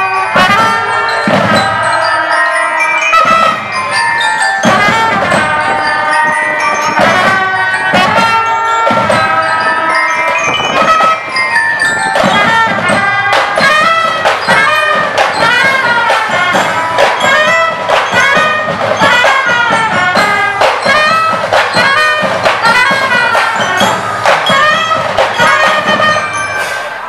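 Band music with brass and bell-like mallet percussion over a steady drum beat, typical of a marching band playing.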